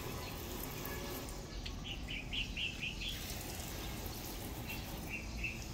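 A small bird chirping in a quick run of about six notes about two seconds in, and three more near the end. Underneath is a faint steady hiss of water from a hose spraying onto the car's hood.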